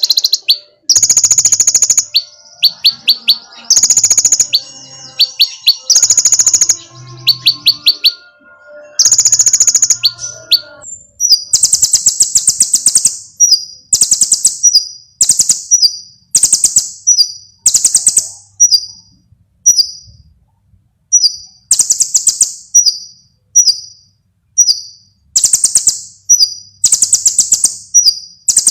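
Konin bird song from a lure recording: loud, high-pitched chirping phrases with fast trills, changing about eleven seconds in to a quick series of short, sharp notes repeated in phrases of about one a second.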